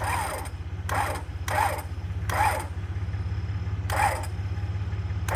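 Rebuilt Warn M8274 spur-gear winch bumped in five short bursts of gear and motor noise, each about half a second, while it puts a light load on the line. Under it, the Jeep's engine idles steadily.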